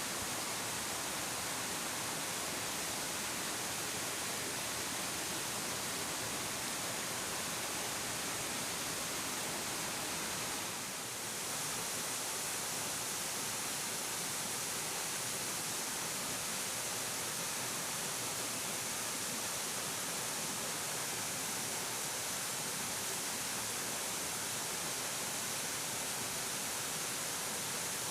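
A 30-metre waterfall with a heavy flow of water, its falling water making a steady, even rush. The level dips briefly about eleven seconds in.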